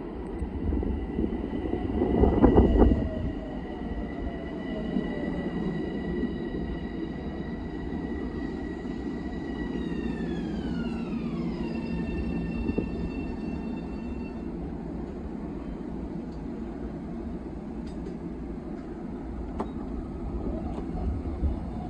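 LIRR M7 electric multiple-unit train pulling into the station and braking to a stop over a steady rumble of wheels on rails. Its propulsion whine, several high tones together, slides down in pitch about ten to twelve seconds in as the train slows to a halt. The loudest moment is a rush of noise about two seconds in as the lead car passes close.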